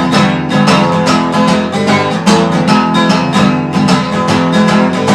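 Acoustic guitar strummed in a quick, steady rhythm, chords ringing between strokes.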